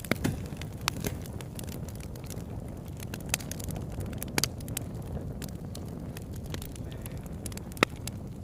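Campfire burning: a steady low rush of flame with scattered sharp crackles and pops, the loudest pop about a second before the end.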